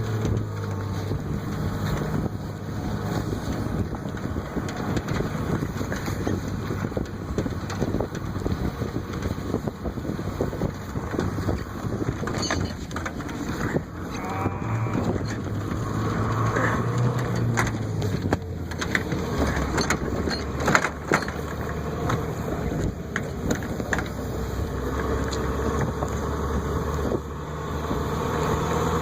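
Pickup truck engine running, its pitch shifting a couple of times, under a rough, crunching rumble with scattered knocks.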